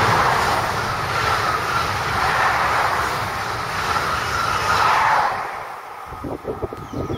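Coupled pair of Regio 2N double-deck electric multiple units passing at speed: a steady rush of wheels on rail and air. The noise drops away a little after five seconds in, as the last car goes by.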